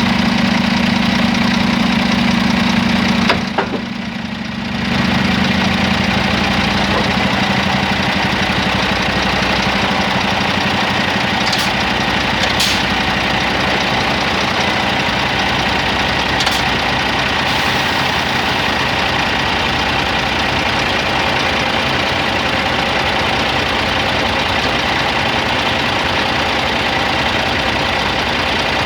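Scania XT G450 truck's diesel engine running steadily, with a brief drop in level about four seconds in and a few light clicks later on.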